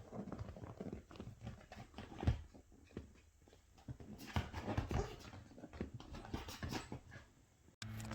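Seven-week-old red-nose pit bull puppy playing and biting at a sweater: irregular scratching, rustling and small puppy noises. Near the end it cuts off suddenly to a steady hum.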